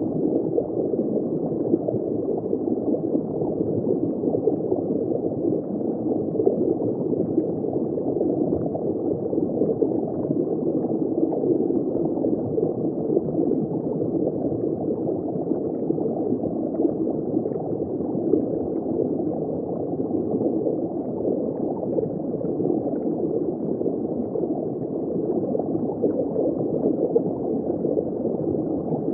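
Underwater ambience heard from just below the surface: steady, dense bubbling and gurgling water, muffled, with nothing high-pitched.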